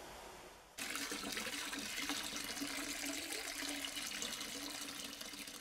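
Steady rushing noise like running water, starting abruptly about a second in and easing off near the end.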